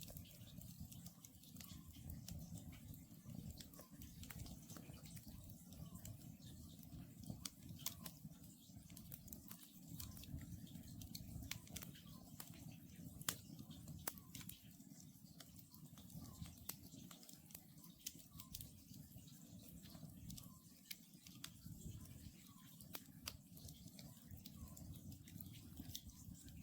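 Wood campfire crackling, with frequent sharp pops over the low rush of the burning logs. Faint calls of a distant Oriental scops owl repeat every second or so.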